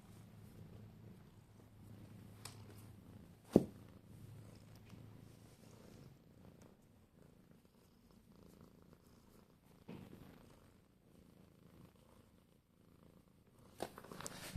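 A cat purring, a steady low rumble that grows fainter after the first five seconds or so. A single sharp knock about three and a half seconds in is the loudest sound.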